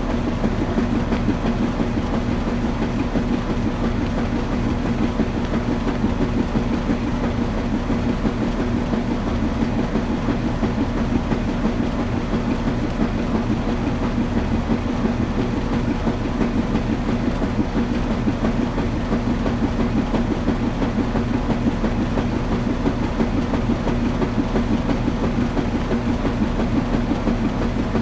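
Washing machine running, with a steady hum and low rumble under a fast, even rattle.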